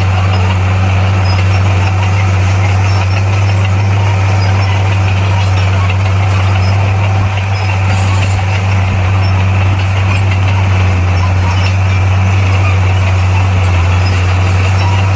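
Bulldozer's diesel engine running at a steady, unchanging low pitch.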